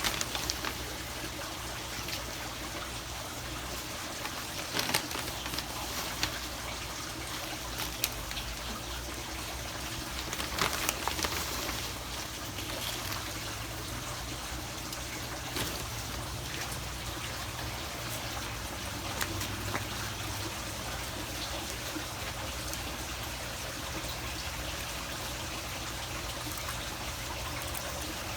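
Steady trickling water, with a few short clicks and knocks about 5, 8 and 11 seconds in.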